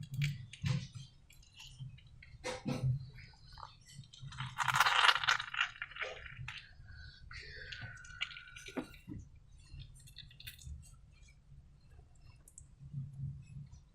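Slime being squeezed and handled: irregular soft squishes, sticky smacks and small clicks, with the loudest squish about five seconds in and a short squeak falling in pitch near eight seconds.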